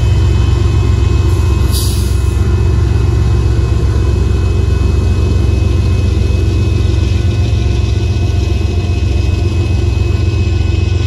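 Loaded Union Pacific gravel hopper cars rolling steadily over a grade crossing, a heavy continuous rumble with the diesel locomotive just past, while the crossing signal keeps up a faint steady ringing tone.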